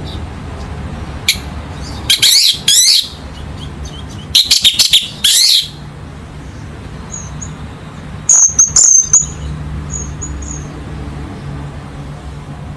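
Orange-headed thrush singing three loud bursts of quick rising and falling notes, about two, four and a half, and eight seconds in, over a low steady hum.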